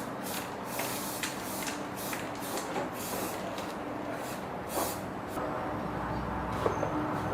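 A compressed-air gun gives short, repeated hissing bursts, about two a second, over a steady machine hum. The bursts stop about five seconds in and a low rumble rises.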